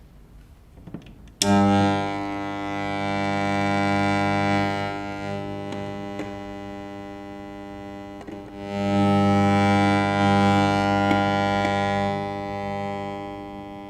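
A microwave receiver's loudspeaker sounds a steady low tone with many overtones, starting suddenly about a second and a half in. It gets louder and softer as the receiver moves, since the tone's loudness follows the strength of the microwaves it picks up. It dips briefly a little past the middle, swells again, and fades near the end.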